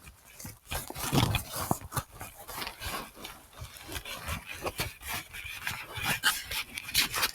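Close, irregular rustling, scraping and scuffing from a handheld recorder being carried on a walk: handling and clothing rub on the microphone, mixed with footsteps.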